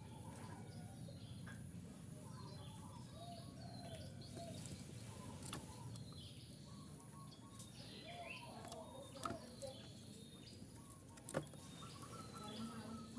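Zebra dove (perkutut) cooing faintly in short rounded phrases, with small birds chirping higher up. Two sharp clicks stand out in the second half.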